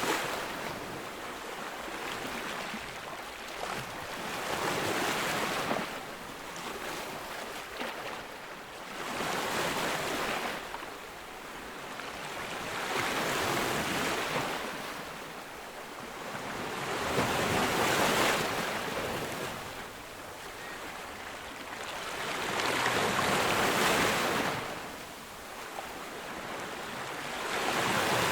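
Sea waves breaking on a beach, the wash of surf swelling and fading about every four to five seconds.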